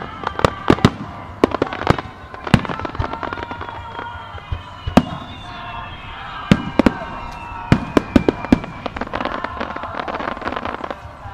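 Aerial firework shells bursting overhead in an irregular string of sharp booms, several in quick clusters, with a patch of dense crackling about nine seconds in.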